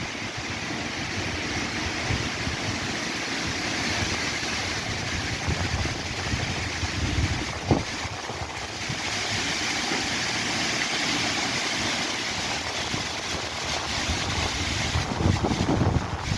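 Wind blowing through trees, the leaves rustling in a steady hiss, with low wind rumble on the microphone. One brief tap about eight seconds in.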